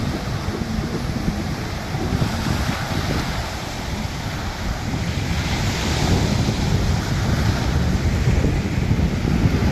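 Wind buffeting the microphone over sea surf breaking on the shore, with the wash of a wave swelling about halfway through.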